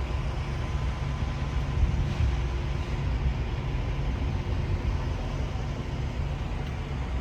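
A semi truck's diesel engine running with a steady low rumble.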